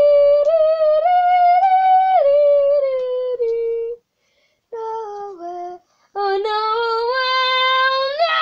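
A girl singing wordless held notes, breaking off about four seconds in, then a couple of short notes and a long note that climbs slightly near the end.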